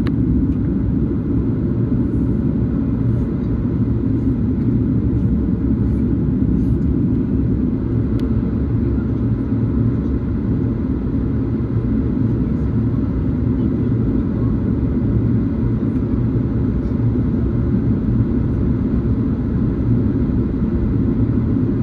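Steady low rumble of a Boeing 737's engines and airframe, heard from inside the passenger cabin.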